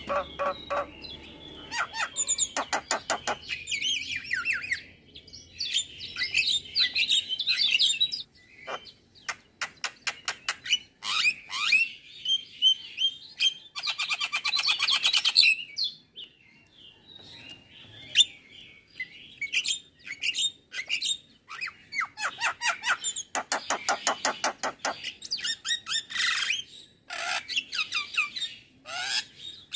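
Male Javan myna singing a long, varied song: fast runs of sharp clicks, chattering and whistled warbling phrases, broken by short pauses and a quieter stretch a little past the middle.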